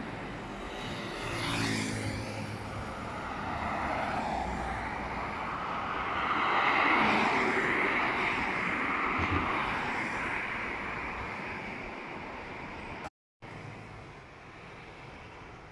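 A passing vehicle: a steady rushing noise that swells to its loudest about seven seconds in, then fades, cutting out briefly near the end.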